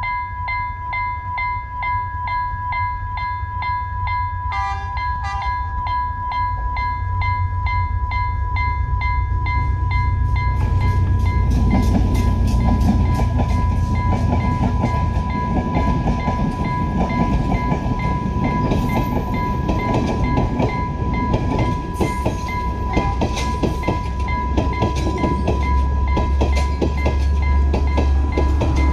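Level-crossing alarm sounding a steady electronic tone with a quick regular ticking, and two short train-horn toots about five seconds in. From about ten seconds in, a passenger train rolls past close by, its wheels clattering over the rail joints, and a deep engine rumble grows near the end as the power car comes up. The alarm keeps sounding under the train noise.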